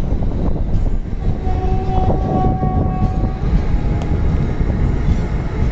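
Passenger train of the Maharashtra Express running along the track, heard from on board: a steady, dense rumble of wheels and coaches with scattered clicks. A steady pitched tone sounds for about two seconds near the middle.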